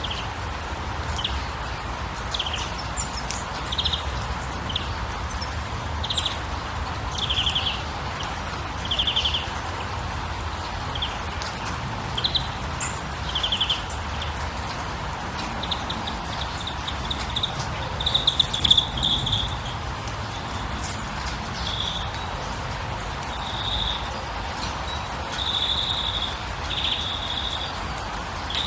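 Nature ambience: short trilled chirps repeat every second or two over a steady hiss, then run into longer, denser trills in the second half.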